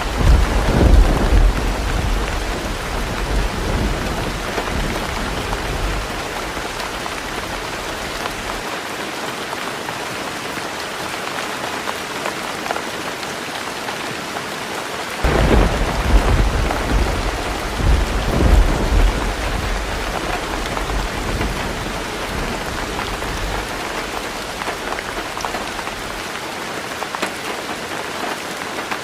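Heavy rain falling on a tin roof with a steady hiss, and two rolls of thunder: one right at the start and another about fifteen seconds in, each rumbling for several seconds before fading.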